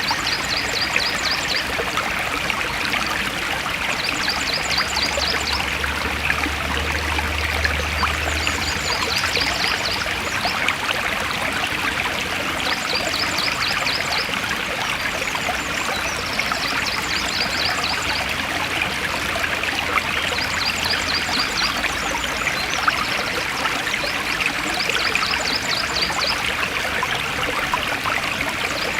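Forest stream flowing steadily, with a short high trill repeating every three to four seconds.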